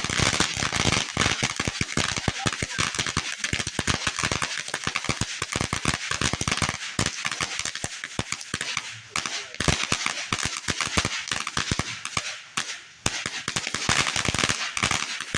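Fireworks crackling: a dense, rapid run of sharp pops and crackles, like a crackling fountain or a string of firecrackers, with brief lulls about nine and thirteen seconds in.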